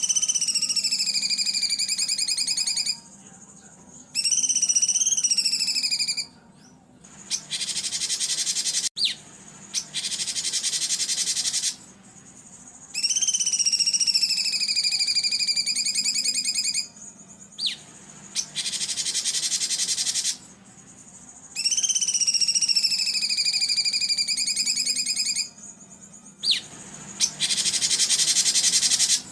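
Recorded songbird calls played as a masteran training track: a wavering, slightly falling whistled phrase about three seconds long alternating with harsh, buzzy rasping calls, the cycle repeating about every nine seconds.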